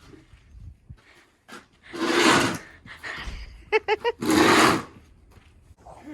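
Snow shovel scraping and scooping snow in a few separate strokes, the loudest about two seconds and four and a half seconds in. Four quick, high squeaks come just before the last stroke.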